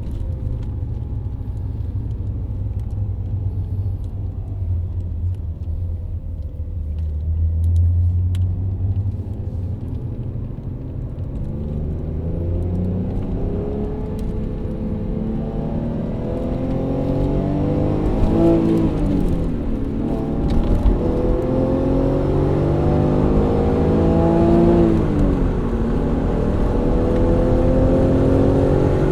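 Alfa Romeo GTV's 3.0-litre Busso V6 running at low revs with a deep rumble, then pulling harder, its pitch climbing over several seconds and dropping sharply twice as the revs fall at gear changes.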